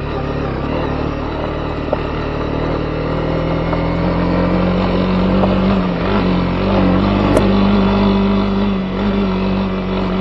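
Honda CB250R's single-cylinder engine running at steady revs under way, easing off briefly about six seconds in and picking up again, with a couple of sharp ticks.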